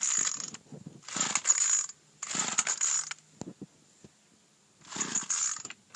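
Recoil pull-starter of a Craftsman 25cc two-stroke string trimmer being pulled four times, each pull a short rope-and-ratchet whir, while the engine does not yet catch. It is a cold start on full choke after three primer pumps.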